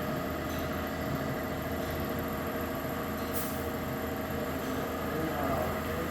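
Steady machinery hum made of several steady tones, with a brief high hiss about three and a half seconds in.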